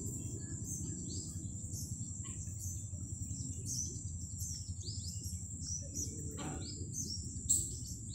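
Onions, tomatoes and peas frying in oil in a kadai: a low steady rumble, with quick high crackles and chirps scattered over it and a thin steady high whine.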